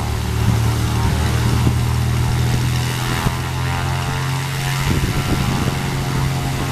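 Piston engine and propeller of a light aircraft running close by, a steady hum that steps up slightly in pitch about five seconds in.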